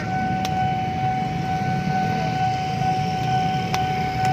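Train running past the railside, a low rumble under a steady high-pitched tone held throughout, with a few faint clicks.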